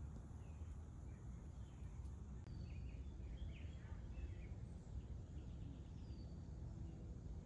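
Faint outdoor ambience: a low steady rumble with scattered bird chirps and short whistles, most of them a few seconds in.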